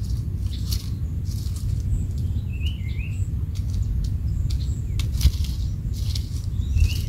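Steady low outdoor rumble with scattered light rustling clicks, and a bird giving a short two-note chirp twice, about three seconds in and again near the end.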